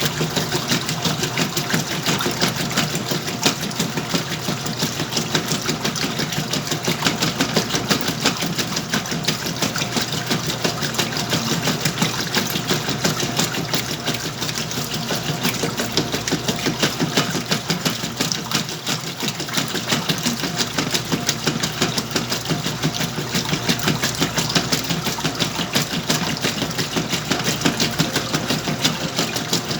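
Whirlpool washing machine running steadily during its wash or rinse cycle, a continuous mechanical sound with a fast, even clatter.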